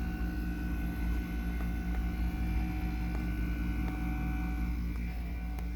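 Window air conditioner running on low, its compressor and fan giving a steady hum with constant tones layered over it.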